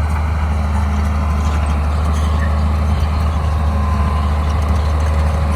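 Heavy diesel engine of a crawler bulldozer running steadily at an even speed, a deep constant hum.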